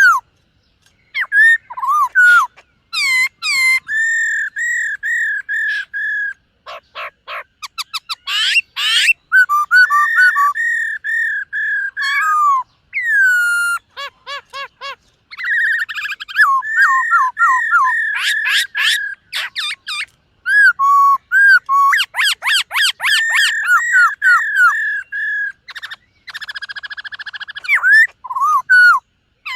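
Black-throated laughingthrush singing a long, varied song of loud whistled phrases: runs of repeated clear notes, rapid trills and sweeping slurred whistles, with short pauses between phrases.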